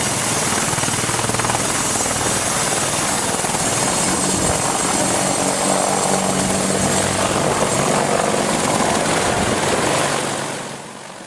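AH-64 Apache attack helicopter's rotor and turbine engines running steadily, loud and unbroken, then fading away near the end.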